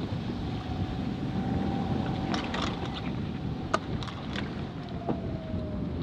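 Wind rumbling on the microphone and water rushing past a small sailing yacht's hull in strong wind, with a faint, slightly wavering whistle and a few sharp clicks and knocks, one near the middle.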